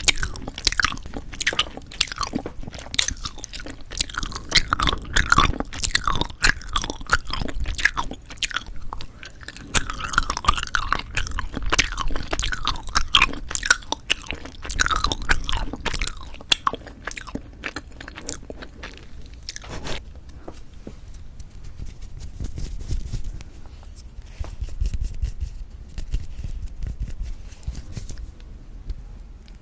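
Close-miked chewing of jelly candy, with crisp crunches and wet, squishy clicks in quick succession; the chewing grows sparser and softer about two-thirds of the way through.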